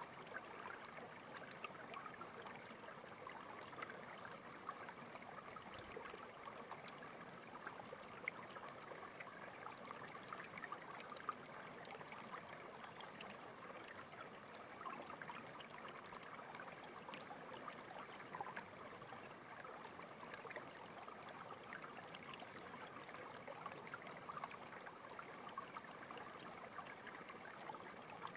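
A stream of water flowing steadily, a faint even babble with many tiny splashes.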